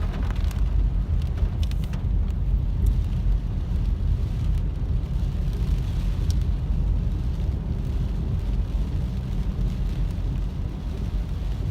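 Car driving on a rain-soaked road, heard inside the cabin: a steady low rumble of engine and tyres on wet pavement, with a few faint ticks and swishes.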